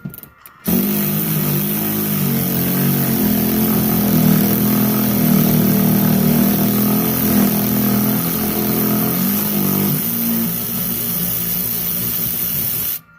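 Cordless power tool motor running steadily for about twelve seconds, backing out a T50 Torx seat bolt, its pitch stepping a little as the load changes, then stopping abruptly.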